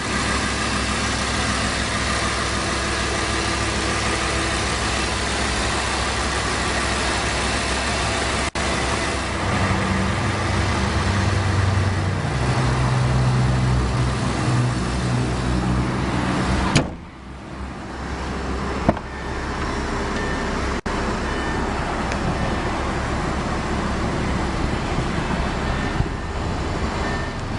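Steady car and road-traffic noise, with a vehicle's low engine hum swelling between about 9 and 17 seconds in. The noise drops off abruptly, then comes back.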